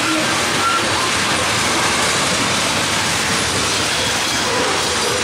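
Loaded coal hopper cars of a freight train rolling past, a steady loud noise of steel wheels on rail, with a few brief faint squeals near the start and near the end.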